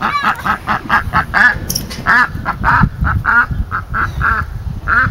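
Ducks quacking: a steady run of short, repeated calls, about two or three a second.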